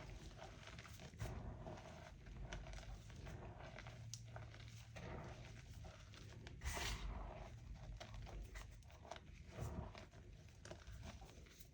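Pieces of crunchy homemade chalk being crushed and crumbled by hand close to the microphone: a run of small dry crackles and crumbles, with one louder, longer crunch about seven seconds in.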